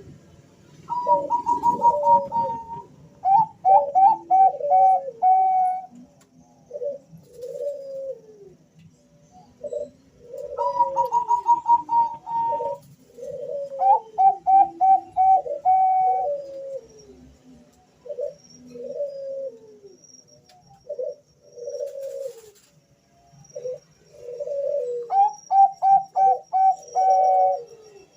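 Two male Bangkok-type zebra doves (perkutut) cooing in answer to each other. Three times, a phrase opens with a quick run of higher notes and falls into lower drawn-out coos, while softer lower coos go on between the phrases.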